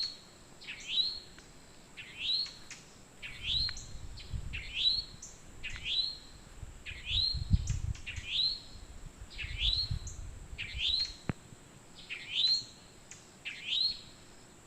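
A towhee repeating a short rising 'treet' call about once a second, each note dipping then sweeping up in pitch. The call is its contact call to its mate.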